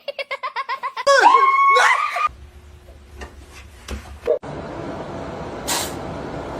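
A person laughing in quick pulses, then a loud high-pitched call that slides up and down in pitch about a second in. A steady hiss follows from about halfway through.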